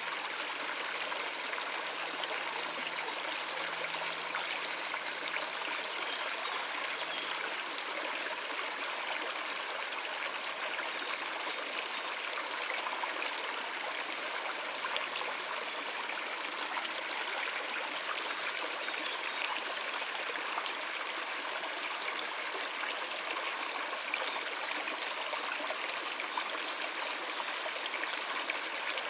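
Stream water running and splashing steadily over rocks. A few faint bird chirps come through near the end.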